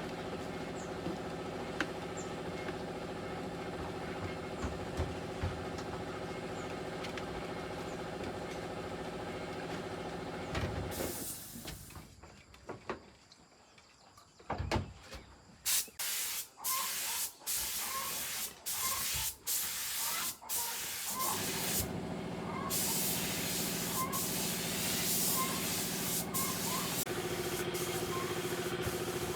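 A steady machine hum that cuts out after a short hiss about eleven seconds in. It is followed by a run of short hissing spray bursts, and the hum starts again at a slightly different pitch about twenty-two seconds in.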